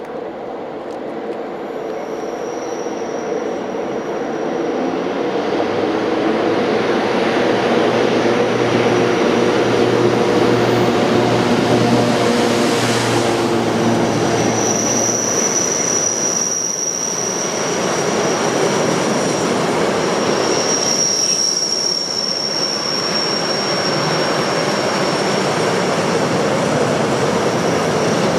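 GBRF Class 92 electric locomotive approaching and passing, a steady hum of several tones growing louder, then its train of enclosed car-carrier wagons rolling past. A thin high wheel squeal comes and goes along the wagons.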